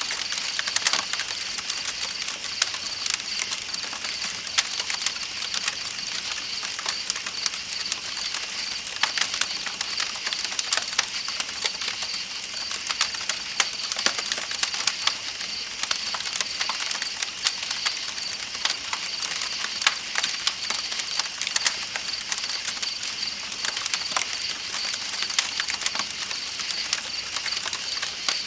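Campfire crackling with irregular sharp pops, over a steady high chirring of night insects and the even hiss of flowing river water.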